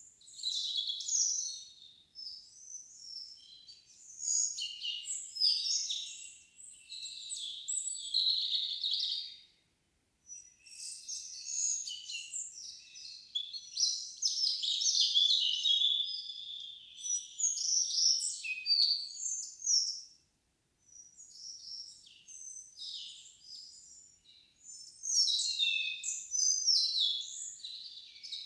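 Songbirds singing in quick, overlapping phrases, with two short lulls, about a third and two thirds of the way through.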